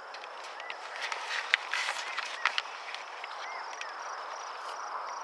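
Outdoor ambience: a steady high trill of crickets, a few short arched bird chirps, and a cluster of sharp clicks and rustles between about one and two and a half seconds in.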